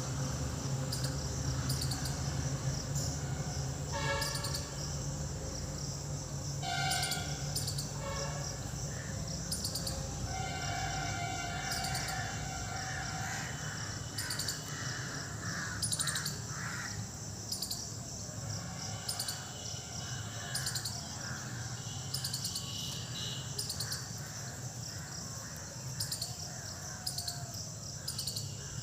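Birds calling, with several harsh, ringing calls between about 4 and 13 seconds in and shorter calls later, over a steady high insect drone.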